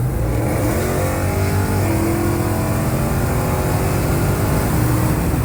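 Car engine revving: its pitch climbs and falls back about two seconds in, then settles, over a steady low drone.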